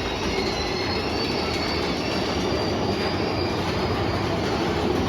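Big Thunder Mountain Railroad mine-train coaster cars rolling on the track with a steady rumble and a high wheel squeal that fades out about three and a half seconds in.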